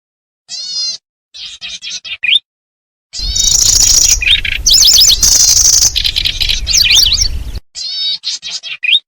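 Recorded song of the kecici belalang played as a lure call: short phrases of rapid, high chirping notes. In the middle a louder, noisier passage runs for about four seconds, with rapid repeated high notes over a low rumble.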